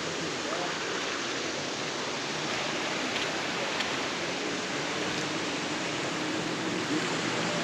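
River water rushing steadily over rocks below a bridge.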